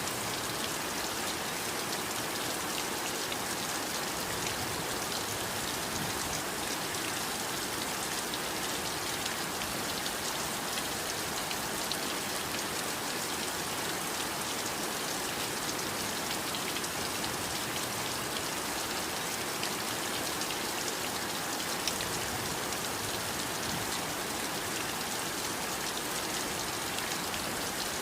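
Steady heavy rain falling, an even hiss of dense drops with fine patter ticks and no breaks or thunder.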